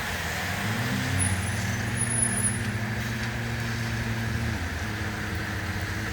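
A vehicle engine running steadily in heavy rain. Its pitch rises about a second in and drops back near the end, over the constant hiss of the rain.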